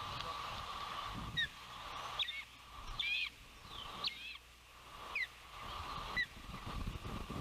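Osprey giving a series of short, high, slurred whistled calls, about seven of them roughly a second apart.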